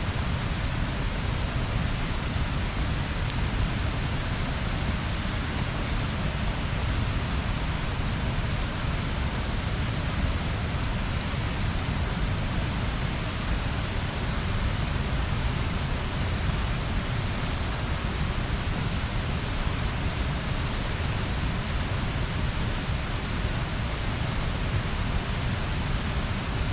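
Bonfire burning with a steady rushing hiss, and a few faint, sparse pops several seconds apart.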